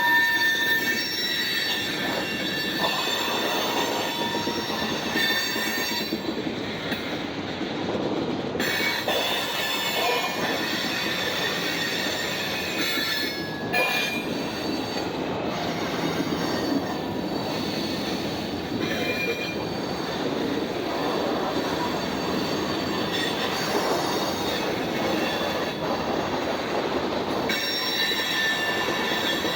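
Freight train cars rolling past with a continuous rumble of wheels on rail, and steel wheels squealing in thin high tones that come and go.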